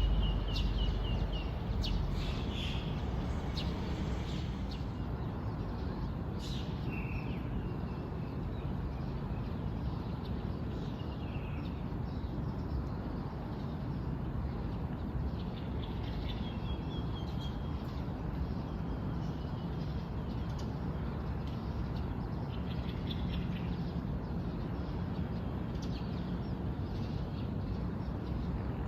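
Wild birds chirping and calling in short, scattered chirps and brief trills, over a steady low background noise.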